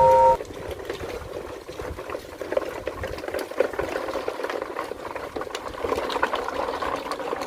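A battery-powered toy train's horn tone cuts off just after the start. The train then runs with a dense, steady rattling crackle and a faint motor hum.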